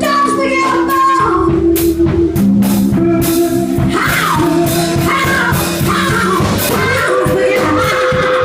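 Live blues band playing: electric guitars over bass guitar and a drum kit keeping a steady beat.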